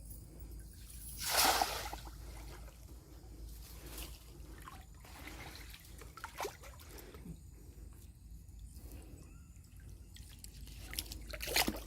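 Water splashing and trickling in irregular bursts, with the loudest splash about a second in and another near the end.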